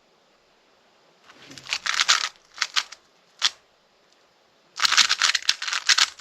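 Plastic speedcube (Rubik's cube) being turned fast: clattering flurries of layer turns, a burst about two seconds in, a few single clicks, then a longer run of rapid turns near the end.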